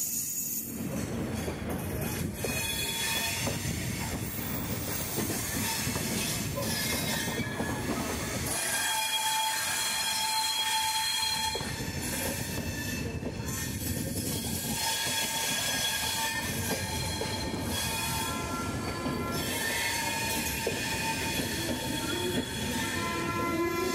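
Cholan Express passenger coaches rolling slowly past at close range as the train enters the station, with steady wheel-on-rail rumble and high-pitched wheel squeals that come and go.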